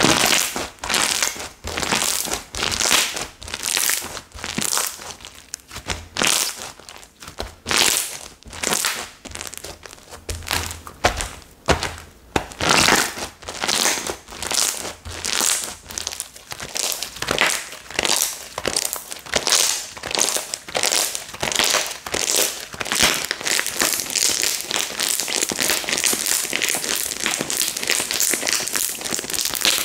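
Slime being kneaded and pressed by hand, giving a crackling squish about twice a second that runs together into a steadier crackle near the end.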